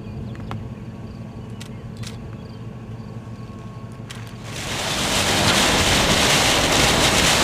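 A low steady hum, then about two-thirds of the way through a strong gust of wind swells in fast and keeps rushing loudly.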